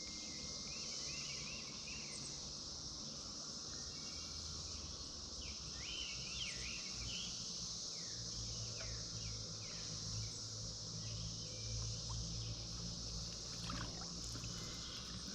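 Steady high-pitched buzzing chorus of Brood X periodical cicadas, with birds chirping through the first half and a low hum in the background around the middle.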